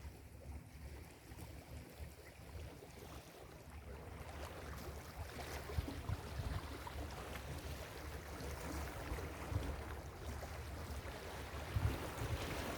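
Ocean surf washing on a beach, with low wind rumble on the microphone; the wash of the waves grows louder through the second half.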